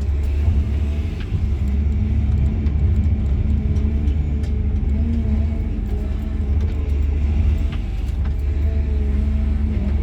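Cat 323 GC excavator's diesel engine running steadily, heard from inside the cab as a low, even drone, with a few faint clicks.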